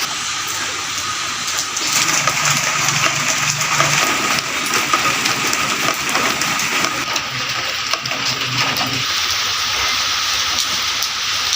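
Light drizzle falling in a steady hiss, with faint scattered drop ticks.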